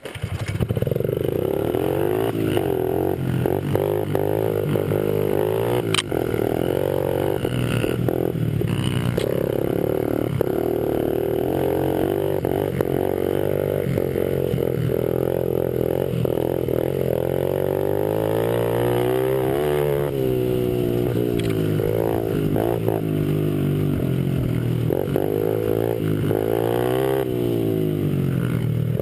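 Small single-cylinder four-stroke pit bike engines (a Honda XR50 and a Honda CRF50) being ridden hard, the revs climbing and dropping again and again through the gears.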